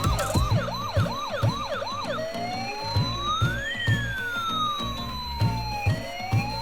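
Police-style electronic siren: a fast yelp of about three chirps a second switches about two seconds in to a slow wail that rises and falls, starting to rise again near the end. Background music with a steady beat plays underneath.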